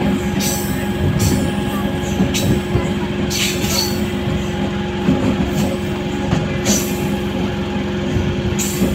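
Passenger train running at speed, heard from an open coach window: a steady rumble and hum of the wheels and running gear, broken by short, sharp hissing clatters every second or two.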